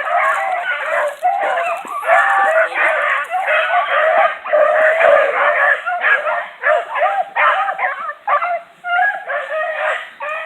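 A pack of hunting hounds baying while running game, many dogs' voices overlapping without a break.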